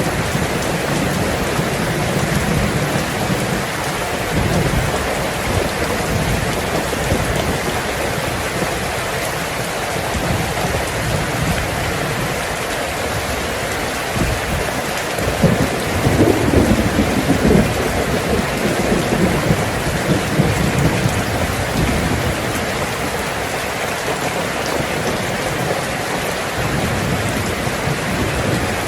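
Heavy rain pelting a tin roof in a steady, dense patter, with thunder rumbling low in the first several seconds and a louder peal of thunder about halfway through.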